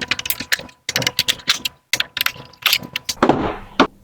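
Plastic printer cover being worked loose and handled: quick, irregular clicking and rattling of plastic parts and loose screws, with a short scraping rustle near the end.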